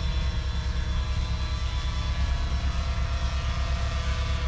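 Cummins 8.3-litre inline-six diesel in a 5-ton 6x6 army truck running steadily with an even low pulsing rumble.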